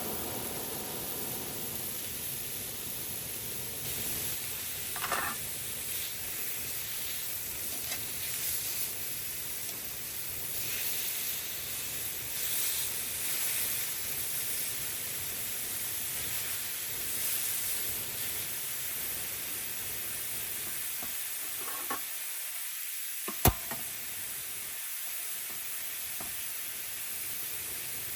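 Food sizzling as it fries in a pan, a steady hiss, with a few light clicks and one sharp click late on.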